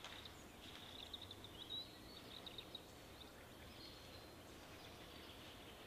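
Faint outdoor background with a small bird chirping in quick, high twitters over the first few seconds.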